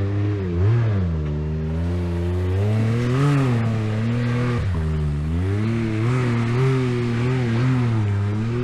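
Can-Am X3 Turbo side-by-side's turbocharged three-cylinder engine on uneven throttle while climbing a trail obstacle, its pitch swelling and dropping every second or so and holding steadier near the end.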